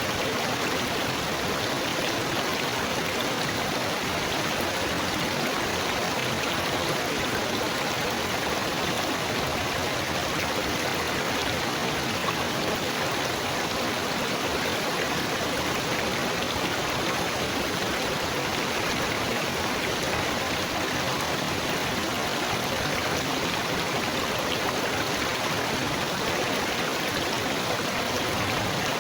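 Babbling stream water, a steady splashing rush.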